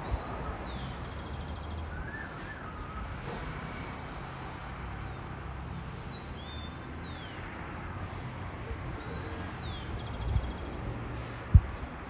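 Bird calls: short, high-pitched falling whistles repeated every few seconds, some followed by a buzzy trill, over a steady outdoor rumble. Two sharp knocks near the end.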